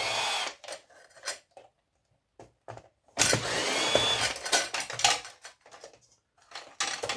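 Cordless drill-driver spinning out screws from a printer casing: a short burst at the start, then a longer run about three seconds in, its motor whine rising and falling, with clicks and rattles of loose parts in between.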